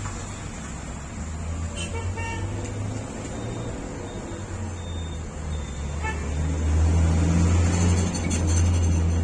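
Truck engine running, growing louder about six and a half seconds in, with a short vehicle horn toot twice.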